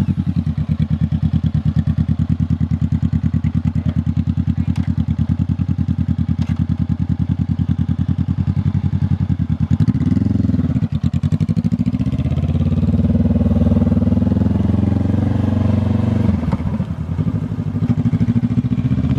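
2020 Honda CBR500R's parallel-twin engine running with its muffler removed: idling with a rapid, steady pulse, revved briefly about halfway through, held at higher revs for a few seconds, then dropping back to idle.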